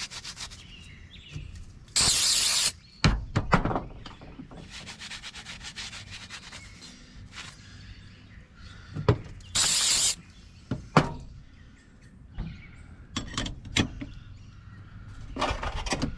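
Parts of a Baldwin mortise lock being handled and fitted back together: scattered small clicks, knocks and rubbing, with two short loud hisses, one about two seconds in and one near ten seconds.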